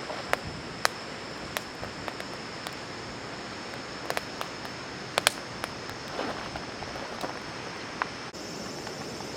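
Wood campfire crackling: irregular sharp pops and snaps over a steady hiss, with a thin high steady tone behind.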